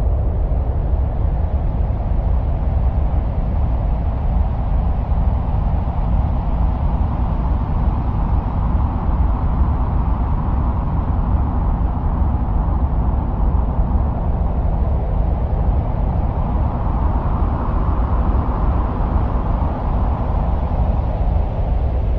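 Steady, low, wind-like rumbling noise presented as the sound of Mars, with a higher hiss that slowly swells and ebbs.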